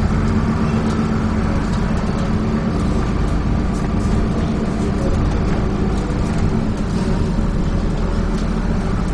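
Dennis Trident 2 double-decker bus running along the road, heard from inside the passenger deck: a steady engine hum with road noise and a few faint clicks.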